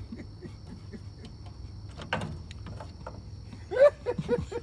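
Crickets chirping in a steady high trill, with a short loud vocal outburst from a person near the end.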